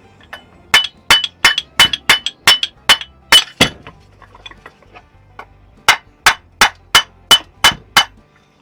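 Mallet blows on a Mobylette AV7 moped engine's crankcase, knocking to drive the crankshaft out of the case half. The strikes are sharp, about three a second, with a short ring. About nine come in quick succession, then after a pause of about two seconds another seven.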